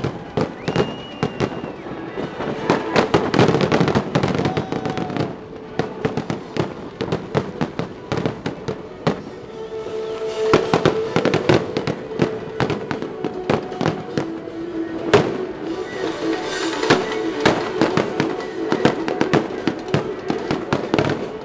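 Fireworks going off in quick succession: a dense run of sharp bangs and crackling, with held tones underneath from about ten seconds in.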